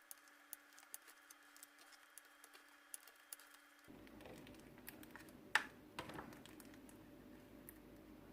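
Faint, irregular little clicks and pops of slime being poked and squeezed by hand, with one sharper snap a little past the middle.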